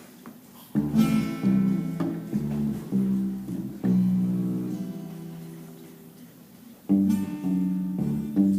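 Acoustic guitar strumming chords, starting about a second in. In the middle one chord is left ringing and slowly fading before the strumming picks up again.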